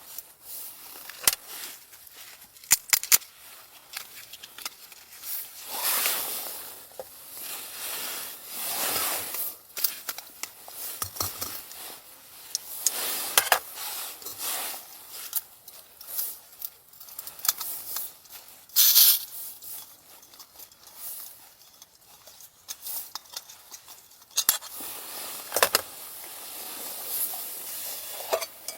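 Irregular handling noises: rustling, scraping and sharp clicks, in short spells with pauses between them.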